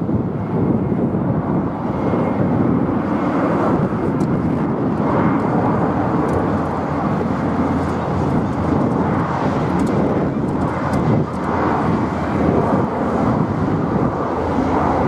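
Jet airliner engines, heard as a loud, steady rushing noise.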